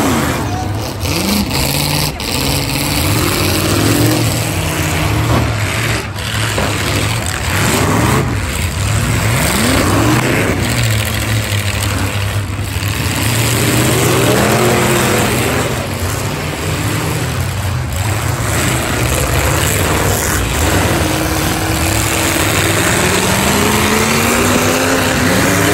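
Several demolition-derby cars' engines revving up and down over and over, with occasional thumps of cars ramming each other.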